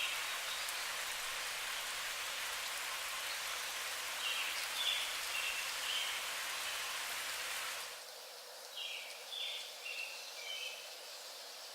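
Steady hiss of water noise that drops away abruptly about eight seconds in. Short bird chirps come through it twice.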